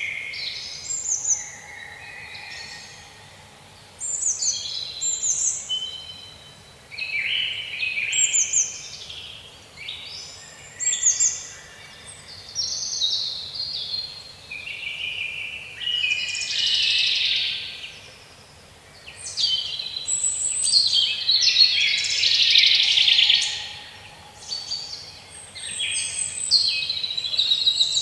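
Several birds singing over one another: quick, high-pitched phrases of mostly falling whistles, coming in bursts with short lulls between them.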